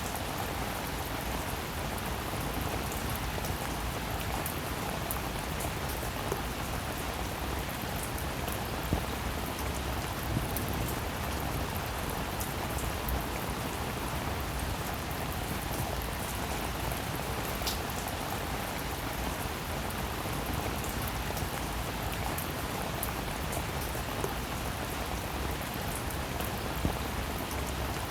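Steady rainfall: an even hiss of rain, with now and then a single louder drop ticking sharply, a few times.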